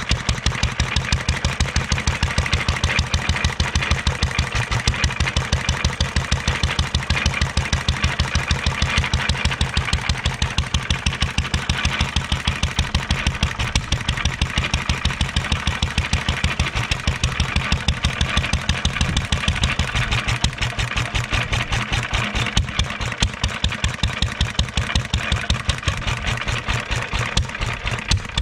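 A 1.5 hp International LA single-cylinder stationary engine running steadily, with an even, rapid beat of exhaust pulses: the long-neglected engine is running again.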